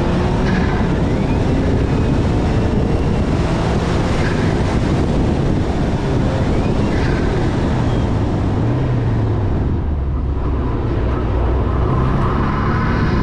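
Ford Focus RS Mk3's 2.3-litre turbocharged four-cylinder engine pulling along a road under a steady rush of wind and road noise. Around ten seconds in it eases off, then revs rise again near the end.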